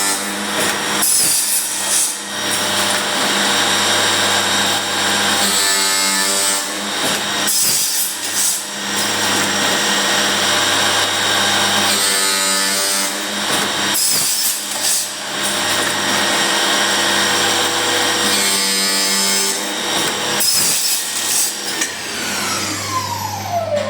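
Electric wood-profiling machine for stair handrails running and cutting wood, with a steady motor hum under harsh cutting noise that swells louder every few seconds. Near the end its pitch falls away as the machine winds down.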